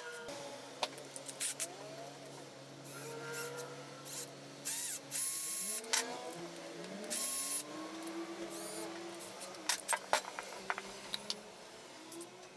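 Drill press running with a sandpaper drum fitted, with two short bursts of sanding about five and seven seconds in and scattered clicks and knocks throughout.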